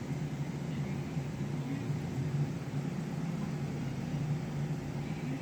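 A steady low hum with a faint even hiss, like a running motor or fan.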